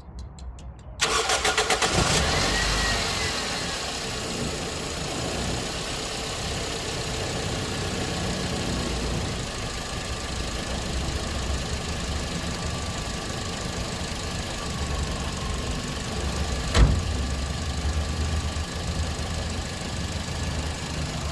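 Toyota Echo/Yaris four-cylinder petrol engine cranking briefly, catching about a second in with a short rise in revs, then settling into a steady idle. It runs smoothly without vibration on newly fitted ignition coils and spark plugs. A single sharp knock comes late on.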